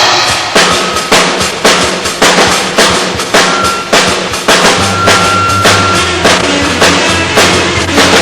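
Rock band playing live: a drum kit keeps a steady beat with strong strikes about twice a second, and bass guitar notes come in about five seconds in.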